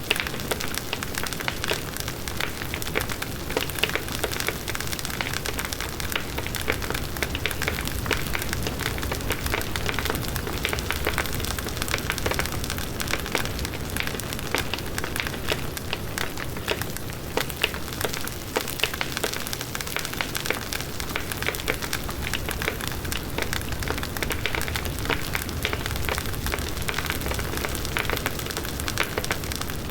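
Large wood bonfire burning steadily: dense crackling and popping of the burning wood over the even rush of the flames.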